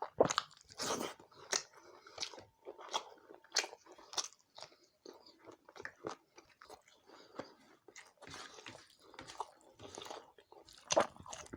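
A person eating chicken curry with rice and roti close to the microphone: irregular wet chewing, smacking and crunchy bites. The loudest bites come just after the start and again near the end.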